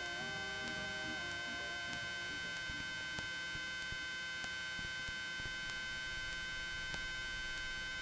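Steady electronic hum and high whine from a helicopter's intercom audio feed, with faint ticks about every half second. A melody fades out about two seconds in.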